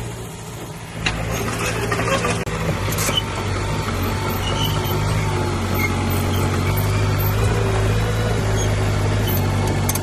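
Heavy diesel engine running, picking up about a second in. A sharp knock and a few clanks come in the first three seconds, then it runs steadily.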